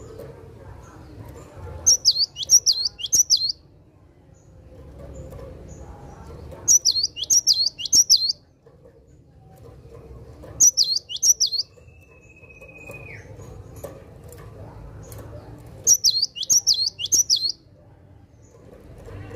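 Cinereous tit (gelatik batu) singing its 'wucit wucit' song: four bursts of quick, repeated, high notes, each about a second and a half long, with pauses of a few seconds between them. About twelve seconds in, a single long thin whistle holds steady and then drops.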